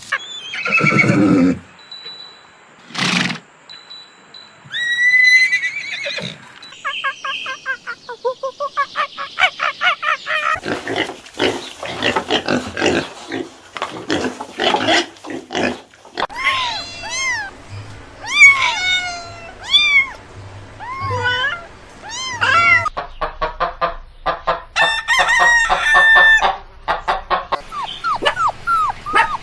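A run of different farm-animal calls one after another, among them chickens. A loud low call opens, then a fast stutter of repeated notes, then a long stretch of quick rising-and-falling chirps.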